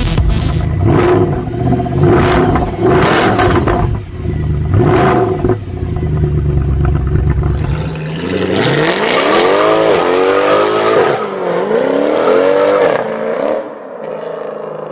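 Mercedes-Benz C63 AMG V8 exhaust: a loud low rumble broken by several short sharp blips over the first half, then, about eight seconds in, a few revs that rise and fall in pitch before the engine drops back and quietens near the end.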